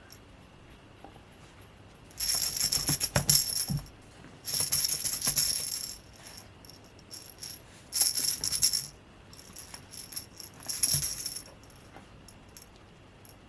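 A rattle shaken in four bursts of a second or two each, with a few dull knocks during the first and last bursts.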